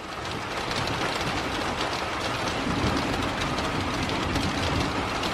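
Heavy rain falling steadily, with a low rolling rumble of thunder that swells during the first second and keeps going.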